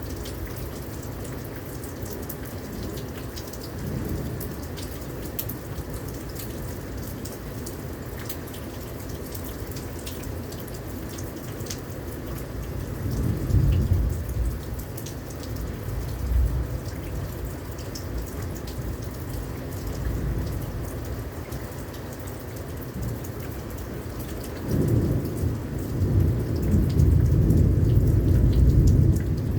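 Heavy rain pouring down, with many sharp drop hits close by. Thunder rumbles twice: a short roll about halfway through and a longer, louder one near the end.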